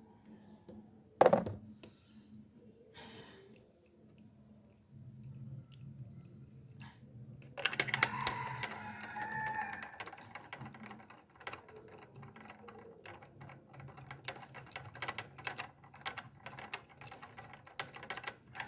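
Ratchet wrench clicking in quick, uneven runs while a spark plug is worked loose, with a single sharp metallic clink about a second in.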